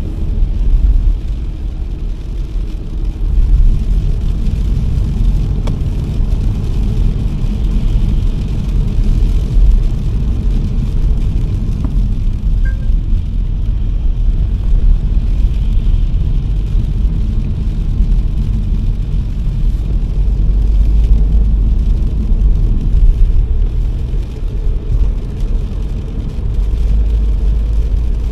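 Car driving on a wet road in the rain: a steady low rumble of road and engine with a faint hiss of rain and wet tyres.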